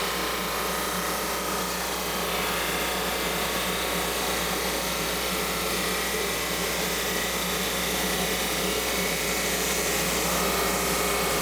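Drum sander running steadily, a constant motor hum under an even whirring noise.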